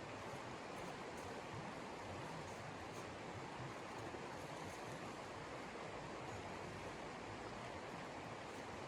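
Steady, even rush of blizzard wind.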